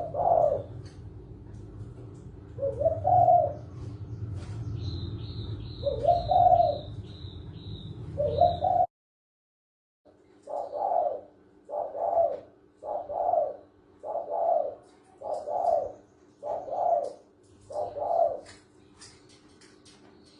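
Spotted doves cooing: slow, spaced coos every few seconds over a low background hum, with a short run of another bird's high, quickly repeated chirps. After an abrupt second of dead silence, a fast run of seven coos follows.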